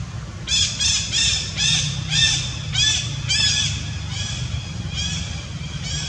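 A rapid series of about a dozen short, harsh, high-pitched animal calls, roughly three a second, starting about half a second in and fading toward the end, over a steady low hum.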